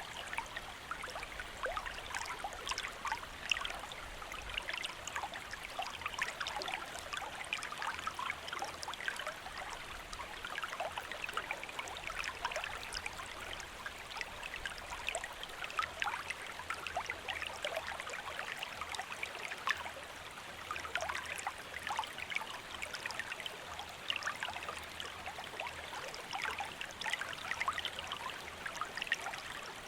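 Shallow stream flowing steadily, water trickling and splashing over stones in many small quick splashes.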